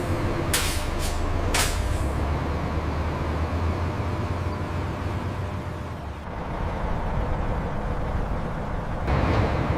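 Low, steady engine rumble of a large vehicle, with three sharp clicks or knocks in the first two seconds and a loud rush of hiss starting near the end.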